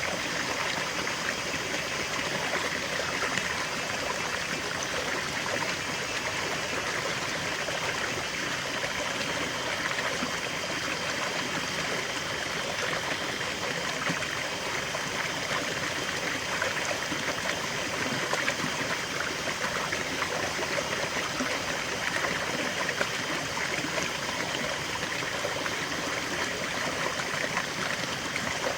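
River water flowing steadily over stones, an even babbling rush with no changes.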